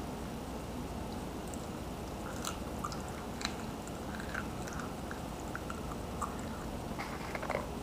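A person chewing close to the microphone: scattered wet mouth clicks and smacks over a steady hiss, with a quick cluster of them near the end.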